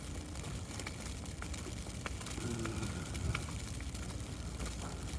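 Wet snow ticking lightly and irregularly on an open umbrella, over a steady low outdoor rumble.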